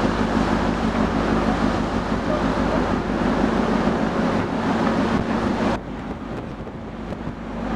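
Steady low hum of a large ferry's engines under rushing wind on the microphone; the wind noise drops sharply about six seconds in.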